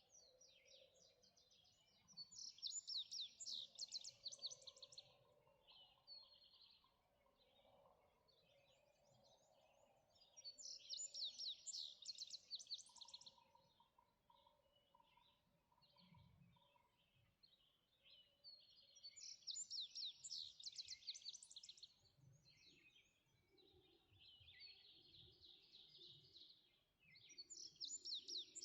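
Faint morning birdsong. One bird repeats a fast, trilling song phrase of two to three seconds about every eight seconds, while other birds chirp softly in between.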